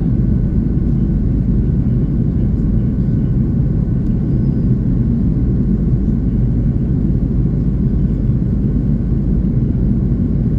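Steady cabin roar of an Airbus A330-300 in flight, engines and airflow heard from inside the passenger cabin, mostly low and even, with a faint steady whine above it.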